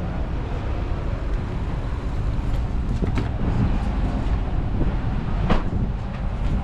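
Steady low road rumble inside a moving car, with a few light clicks, the most distinct about five and a half seconds in.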